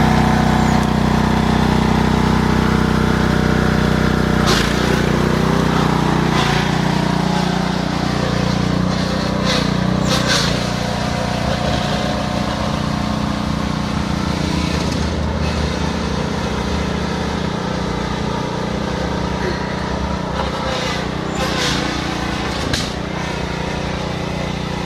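Lawn tractor engine running steadily, with occasional sharp clunks and knocks over the top.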